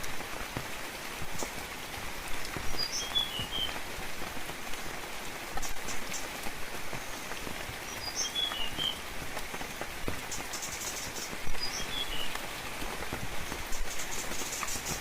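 Steady rain falling and pattering, with scattered louder drop ticks. A bird gives the same short, falling chirp three times, about every four to five seconds.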